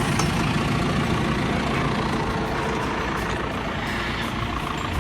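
Farm tractor engine running steadily, easing off a little toward the end.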